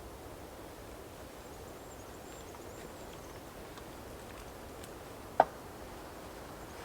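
Quiet woodland ambience: a steady low background, a faint high call near the start, and one sharp knock about five and a half seconds in.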